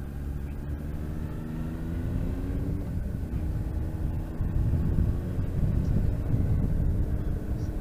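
Motorcycle engine accelerating, its note rising over the first few seconds, then wind and road noise rumbling louder on the microphone as speed builds.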